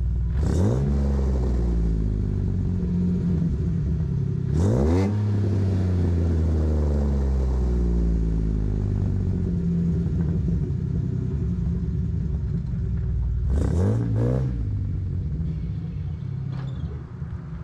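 2007 Jeep Wrangler JK's 3.8-litre V6 running through long-tube headers with no catalytic converters or resonators and an aftermarket muffler, idling just after start-up. It is revved quickly three times, about half a second in, near five seconds and near fourteen seconds, each time rising and then settling back to idle.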